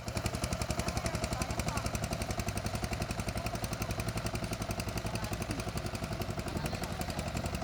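Mini wheeled tractor's engine running steadily, with a rapid, even chugging of about ten beats a second.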